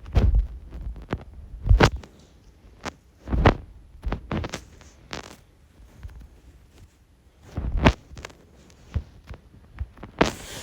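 A string of irregular knocks and thumps, some heavy and low, others light clicks, such as sticks, a ball or gear being handled in a small room.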